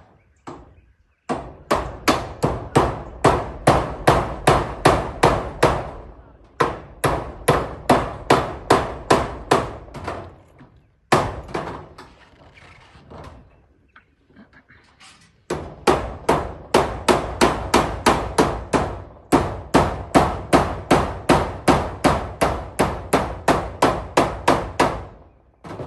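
Hammer nailing down zinc roofing sheets: runs of quick, even strikes, about four a second, with short pauses between runs and a single lone blow midway.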